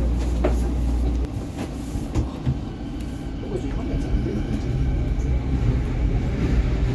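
Rumble of a Vancouver SkyTrain Canada Line car heard from inside, its motors and wheels running on the track. The deepest part of the rumble drops away about a second in and builds back up over the second half.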